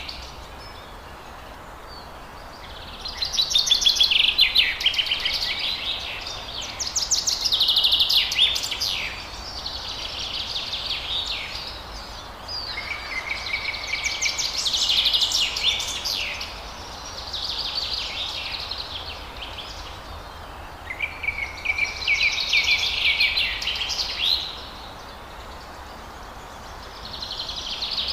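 Forest songbird singing, repeating a phrase of rapid chattering trilled notes lasting two to three seconds, with short pauses in between, over a steady hiss of forest ambience.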